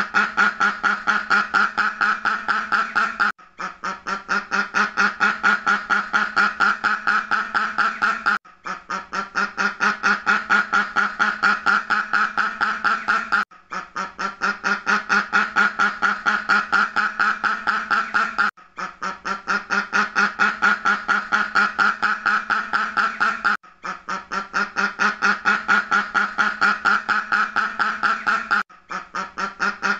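Duck quacking in a fast even series of about five quacks a second. Each series starts softer, builds up, and breaks off after about five seconds before the same series repeats: a short recording looped over and over.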